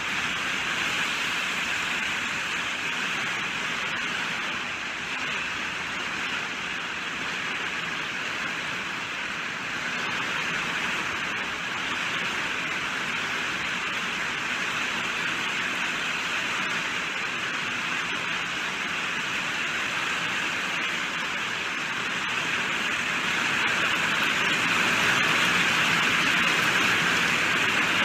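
Steady rainfall: an even hiss of falling rain that grows a little louder near the end.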